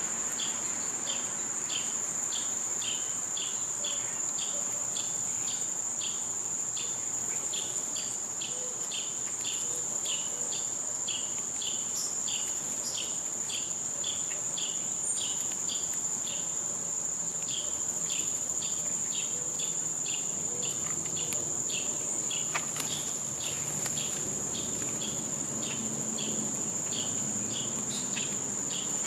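Summer insect chorus: a steady high-pitched trill, with rhythmic chirps two or three times a second.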